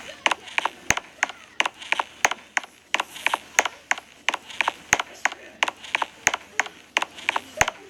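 Sharp, even tapping or knocking, about three hits a second in a steady rhythm.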